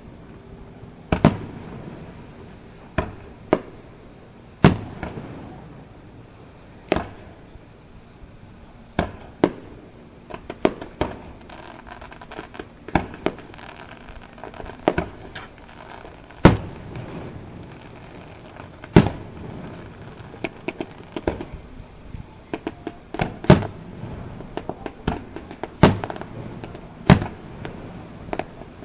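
Aerial fireworks show: shells bursting with sharp bangs every second or two, with clusters of smaller crackles in between.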